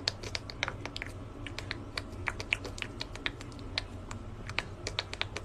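Rapid, irregular light clicks and taps, several a second, over a steady low hum.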